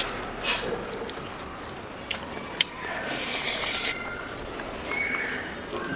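Close-up eating sounds: wet chewing and lip-smacking of gravy-coated pork leg, with a few sharp mouth clicks and a brief crackly rustle about three seconds in as a handful of crumbly topping goes into the mouth.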